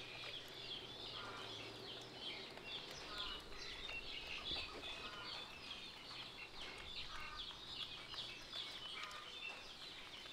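Birds chirping continuously in the background, many short calls overlapping, with a few lower clucking calls now and then.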